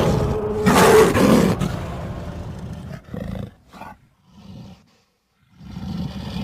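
Sound-designed giant big-cat creature roar, built from lion, tiger and leopard roars: a loud roar about a second in that fades away, followed by a few short growls. A brief silence follows, and another roar begins near the end.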